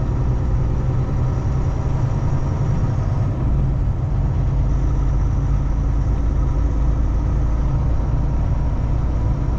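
Kenworth T680 semi truck's diesel engine running with a steady, unchanging low drone.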